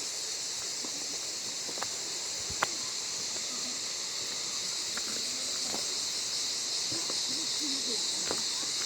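Cicadas buzzing in a steady, high-pitched chorus, with a single sharp click about two and a half seconds in.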